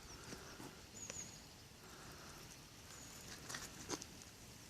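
Faint outdoor quiet with short, thin, high-pitched bird chirps, twice, and a few sharp clicks about three and a half seconds in.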